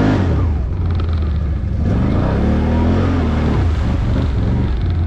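Off-road vehicle's engine running, revving up and easing back down about two seconds in.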